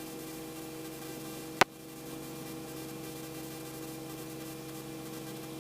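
Helicopter engine and rotor noise heard through the cockpit headset intercom as a steady hum with a few steady tones, broken by one sharp click about a second and a half in.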